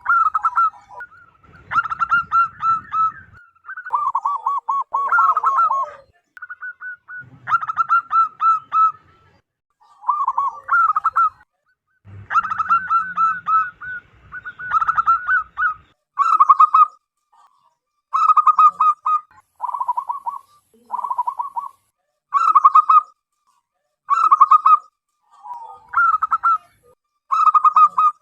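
Zebra dove (perkutut) cooing: phrases of rapid, staccato coos repeated over and over with short pauses between.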